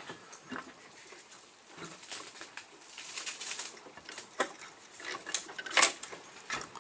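Scattered light metal clicks, taps and rustling as a cylinder head is worked down onto the studs of a Mini 1293 engine, with the sharpest click just before six seconds in.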